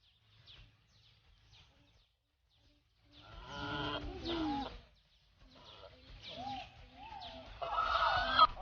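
A bird calling: after about three seconds of near quiet, a bout of harsh, pitched calls, then a second series of short calls that rise and fall in pitch and grow louder near the end.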